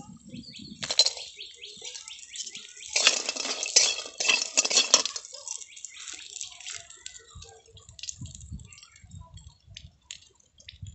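Fish pieces frying in a little oil in an iron wok, crackling and spitting, with a metal spatula scraping and clinking against the pan. The frying is loudest about three to five seconds in and thins to scattered pops near the end.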